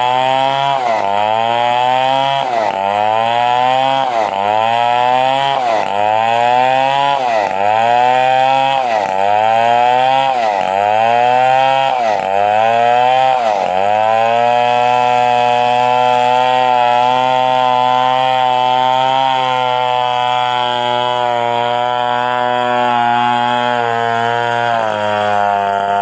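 Stihl 070 two-stroke chainsaw ripping a coconut palm trunk lengthwise. For the first half its engine pitch sags and recovers about once a second as the load comes and goes, then it holds a steady high pitch, easing slightly near the end.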